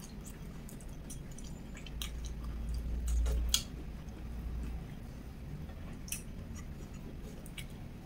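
Close-miked chewing and wet mouth sounds of someone eating rice, omelette and bean sprouts by hand, with many small clicks and smacks. A low rumble swells for a couple of seconds midway, capped by one sharp click.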